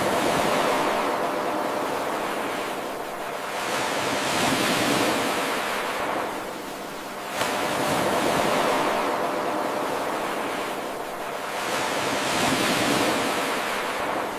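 Ocean waves washing in, swelling and fading about every four seconds. A faint click about seven seconds in marks the seam of an eight-second looped recording.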